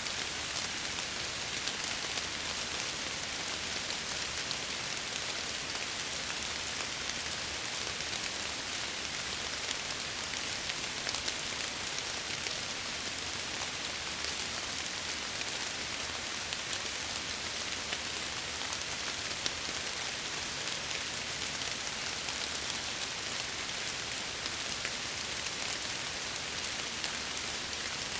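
Steady rain falling against window glass, an even hiss with fine pattering drops.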